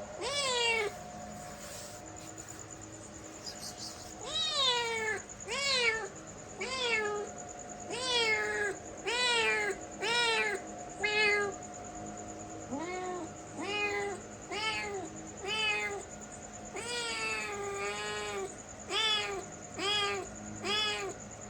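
A cat meowing over and over, about fifteen short meows each rising and falling in pitch. After a pause near the start they come roughly once a second, getting shorter and quicker toward the end. A faint steady hum runs underneath.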